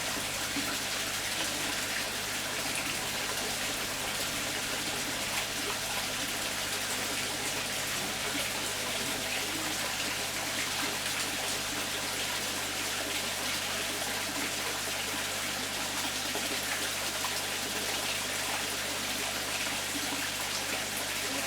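Water running and splashing steadily, without a break.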